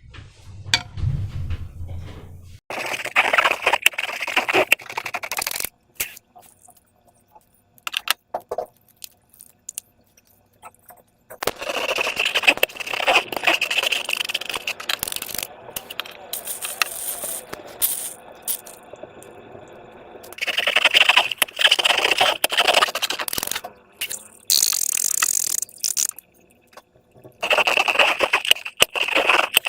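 Slime being squeezed and worked by hand, giving wet crackling and clicking in several bursts of a few seconds each, with short pauses between them.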